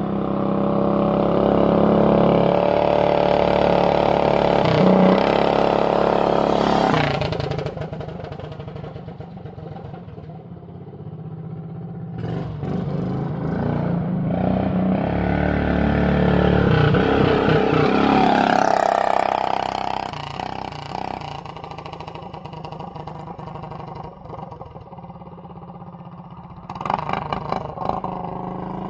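Coleman B200R minibike's small single-cylinder four-stroke engine riding past twice, loud as it goes by and fading away between passes, with a brief rev-up near the end of the second pass.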